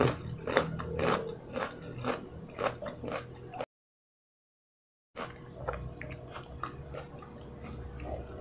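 Close-miked chewing: wet mouth clicks and smacks in quick succession. After about three and a half seconds the sound cuts out completely for about a second and a half, then comes back as softer chewing and fingers picking at fried chicken.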